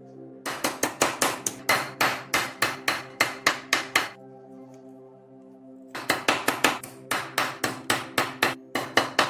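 A rapid series of sharp strikes, about five a second, in two runs with a pause of about two seconds between them, over steady background music.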